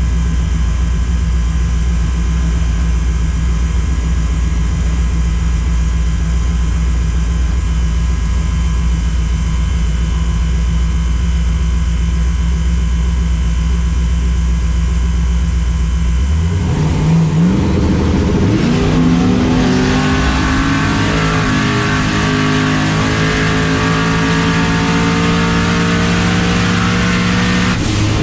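Car engine running at a steady low idle, then about 16 seconds in it accelerates hard, its note climbing and staying high through the rest of the run.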